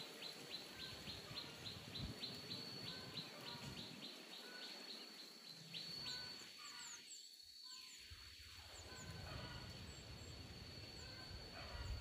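Faint outdoor ambience with small birds chirping: a quick, even run of short high chirps, about four a second, through the first half, over a steady high-pitched tone. A low rumble comes in during the second half.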